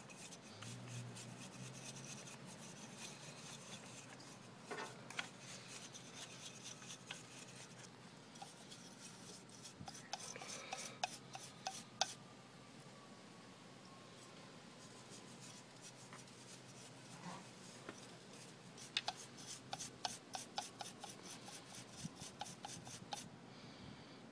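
Faint rubbing and scratching with many small clicks and taps as the dusty front of a desktop PC case is scrubbed clean by hand.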